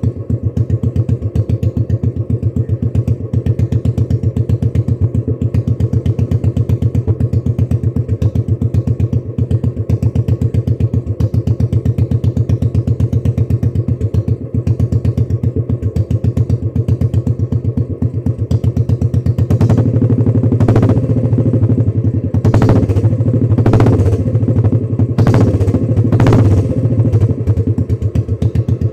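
Royal Enfield Classic 350's single-cylinder engine idling with an even, steady thump, then blipped with the throttle about six times in quick pairs from about twenty seconds in, settling back to idle near the end.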